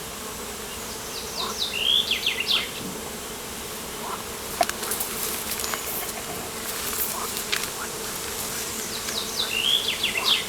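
Outdoor ambience by the water: an insect buzzes steadily close by, while a bird sings a short phrase of quick falling notes twice, once near the start and again near the end. Scattered sharp ticks fall in the middle.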